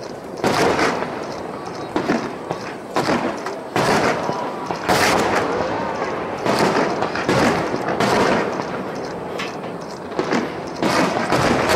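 Aerial firework shells bursting over the bay in quick succession: about a dozen sharp booms, roughly one a second, some in close pairs.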